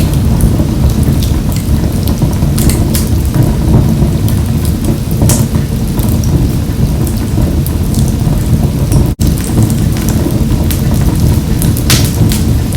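Wood fire burning in a wood-burning stove: a steady low roar with scattered sharp crackles and pops. The sound drops out for an instant about nine seconds in.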